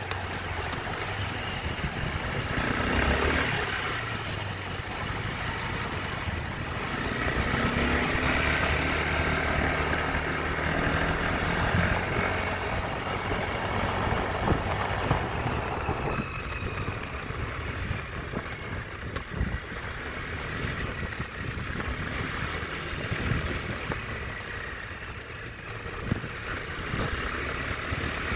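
Motorbike engine running while being ridden, its pitch rising and falling as it speeds up and slows, over road and wind noise.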